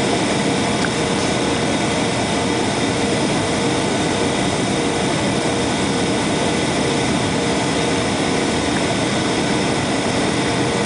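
Steady jet engine and airflow noise inside a jet airliner's cabin during the approach to landing, with a thin steady hum running under it.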